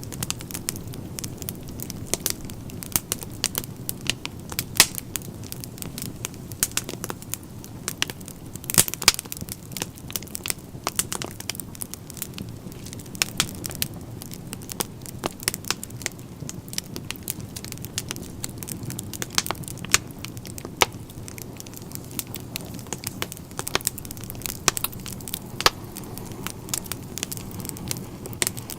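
Wood fire burning in a fireplace: frequent irregular sharp crackles and pops over a steady low rush of flame.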